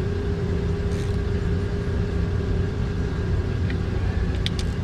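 Steady low mechanical rumble with a constant hum, like a motor running, and two quick light clicks near the end.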